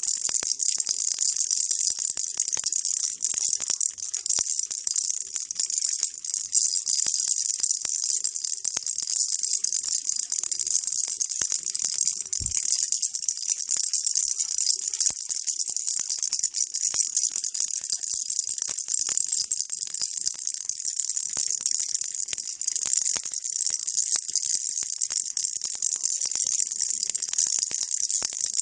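Baby rattle (ttallang-i) shaken steadily without pause: a dense, high rattling hiss of fine clicks.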